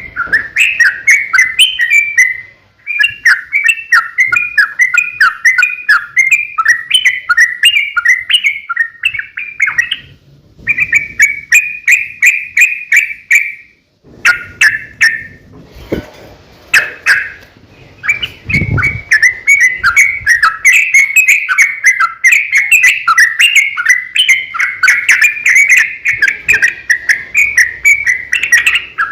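Yellow-vented bulbul (trucukan) singing long phrases of fast, chattering notes, broken by a few short pauses.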